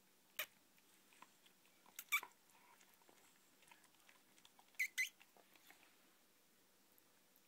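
A boxer puppy making short, sharp noises: one, then two close together about two seconds in, then another pair about five seconds in.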